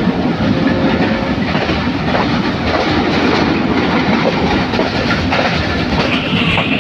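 Passenger train running at speed, heard from inside a carriage: a steady rumble of wheels on the rails.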